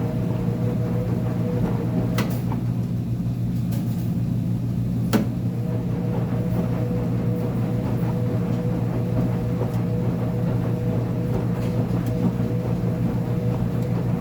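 Uni-Mac UniMat 35 commercial washing machine running with a steady hum, with a couple of sharp clicks, the loudest about five seconds in.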